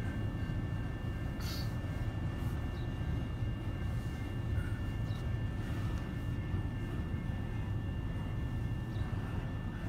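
Freight train cars rolling past a grade crossing: a steady low rumble with a few short clanks, heard from inside a stopped car.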